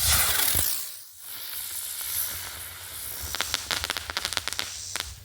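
Super Cobra spinner firework igniting with a sudden loud hiss of spraying sparks, which eases for a moment and carries on, then a quick run of sharp crackles from about three seconds in. It ends without its closing bang: the report fails to go off.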